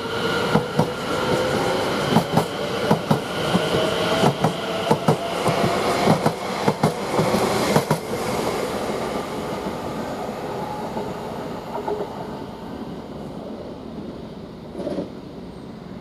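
A Greater Anglia Class 720 electric multiple unit accelerating away from the platform. Its traction motor whine rises steadily in pitch while the wheels click rapidly over rail joints. After about eight seconds the clicking stops and the sound fades as the train leaves.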